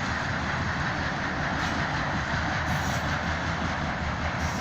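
Freight cars of a BNSF train rolling past, a steady rumble with wheels clattering over the rail joints.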